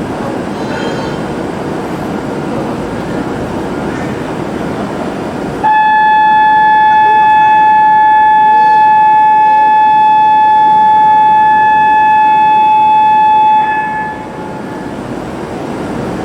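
Shinkansen platform noise, then a single steady electronic tone that starts abruptly about six seconds in, holds unchanged for about eight seconds and cuts off, as a departure warning signal.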